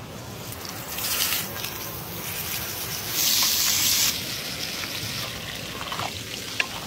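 Steak sizzling as it sears in hot oil in a cast-iron skillet over a campfire, with louder surges of sizzle about a second in and again for about a second around the three-second mark. A few faint clicks come near the end as the meat is basted with butter and a wooden spoon.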